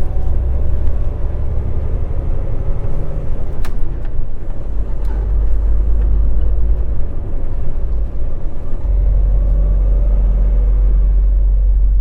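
Semi-truck engine running with a steady low rumble, and a single sharp click about four seconds in.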